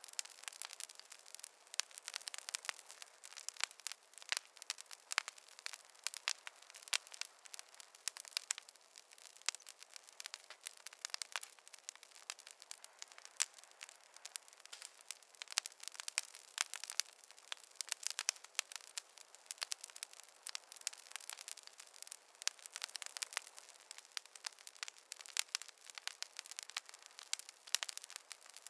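Wood fire crackling: a dense, irregular run of sharp pops and snaps from burning logs over a faint hiss, with no low rumble.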